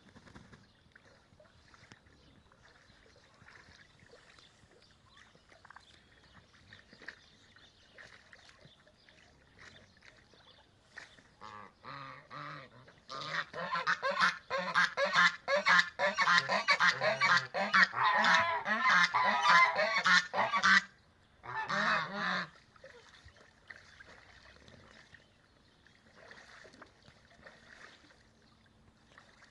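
Several Leșească domestic geese honking together in a loud, dense chorus. It starts around eleven seconds in, cuts off suddenly after about ten seconds, and ends with one more short burst of honks.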